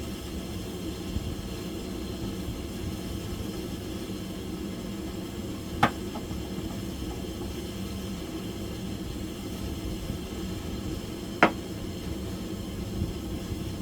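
Steady low hum, broken twice by a short sharp click about five and a half seconds apart.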